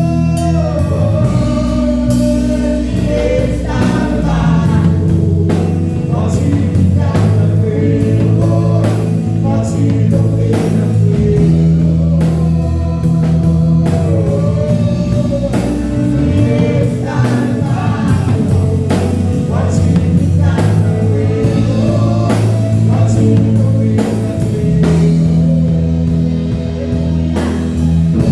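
Live gospel worship song: a woman singing over a church band, with held bass and keyboard notes and a drum kit keeping the beat.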